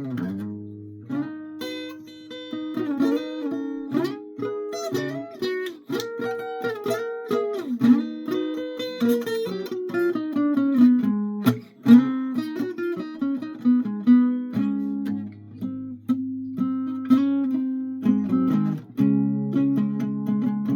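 Acoustic guitar played solo, plucked notes and chords ringing in a melody, with the odd strum.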